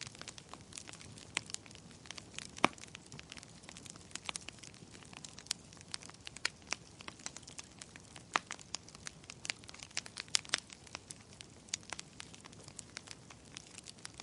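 Fire crackling: irregular sharp pops and snaps over a soft steady hiss, with one louder pop a little under three seconds in.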